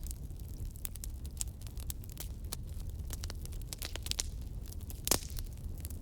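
Wood fire in a fireplace crackling, with irregular sharp pops and snaps over a steady low rumble of the flames, and one louder pop about five seconds in.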